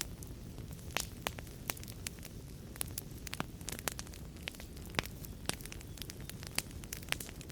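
Wood fire crackling in a fireplace: irregular sharp pops and snaps, a few a second, over a steady low rumble and hiss of the flames.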